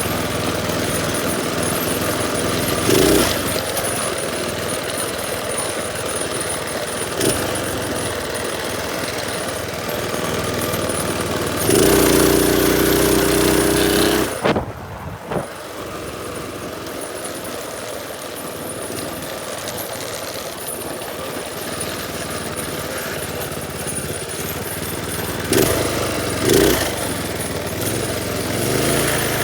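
Small single-cylinder minibike engine running under way, with a louder burst of revs for about two seconds near the middle before it drops back to a lower, quieter running.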